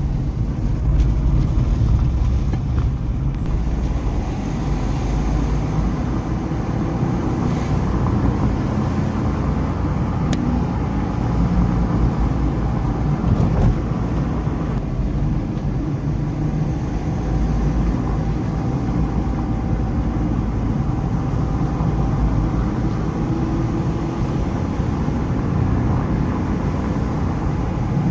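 A car driving at a steady pace: engine hum with road and wind noise, loud and even.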